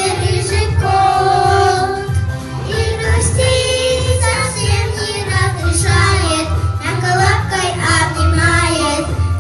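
Girls singing a children's pop song together over a backing track with a steady bass beat.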